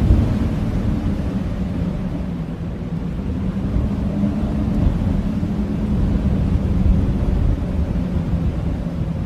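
Strong blizzard wind blowing, a deep rush with a low steady howl. It eases slightly a couple of seconds in and builds again.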